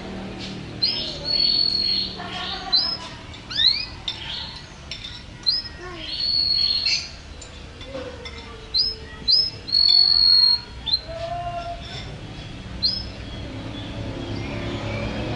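Domestic canary singing: runs of short, high, repeated chirps and trills broken by brief pauses, with a few notes held a little longer and a rising slurred note about four seconds in.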